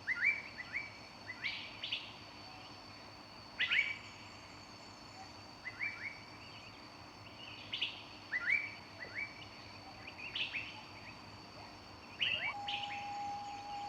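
Songbirds chirping in a forest: short rising chirps in twos and threes every couple of seconds, over a steady thin high-pitched background, with one longer, lower, level whistle near the end.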